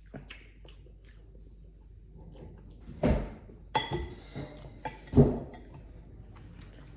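Dishes and utensils clinking and knocking with scattered light clicks. There are a few louder knocks about three, four and five seconds in, and the one near four seconds rings briefly like glass or metal.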